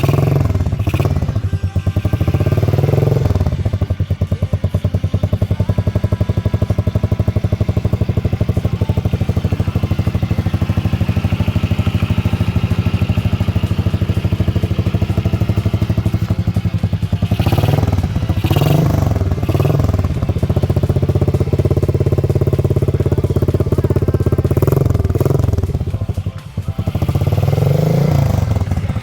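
Motorstar Well 125ii's 125cc single-cylinder engine running through a Leo Vince aftermarket exhaust: a steady loud idle, blipped up in short revs a few times near the start, in a cluster in the middle and again near the end.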